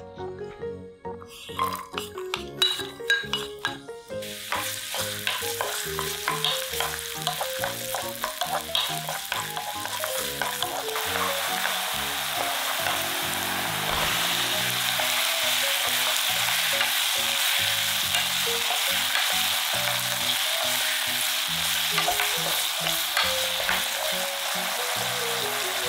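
Radish frying in oil in a pan, sizzling while being stirred. A few utensil clicks and knocks come first, then the sizzle starts about four seconds in and grows into a steady, loud hiss.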